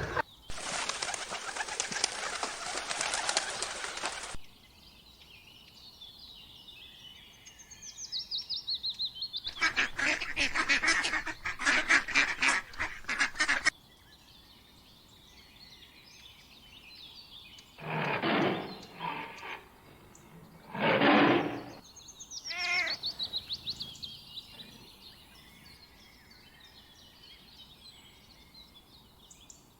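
Birds calling: several loud stretches of rapid, harsh calls and two shorter calls about eighteen and twenty-one seconds in, with high chirping between them.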